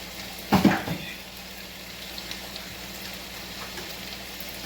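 Food sizzling steadily in a frying pan, with one short knock about half a second in.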